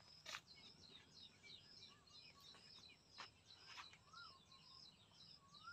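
Near silence with faint birds chirping in quick repeated high notes, a couple of soft whistled calls near the end, and a few faint clicks.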